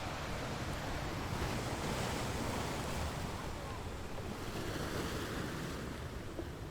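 Ocean surf: waves washing onto the shore in a continuous rush, swelling a second or so in and easing off toward the end.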